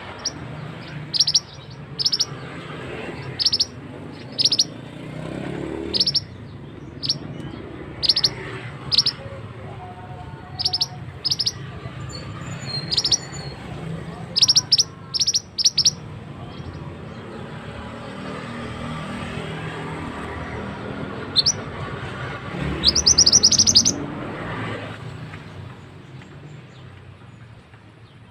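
Mantenan (pied bushchat) giving short, sharp chirps about once a second, with a quick run of several notes partway through and a rapid trilled burst near the end, over the steady rush of a flowing stream.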